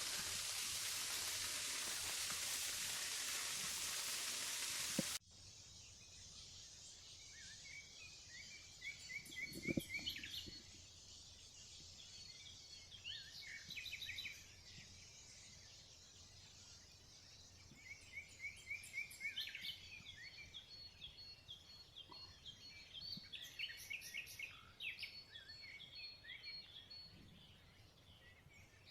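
Rain falling steadily for about five seconds, then cutting off abruptly; after it, small birds chirping in quick runs of repeated high notes over a quiet forest background.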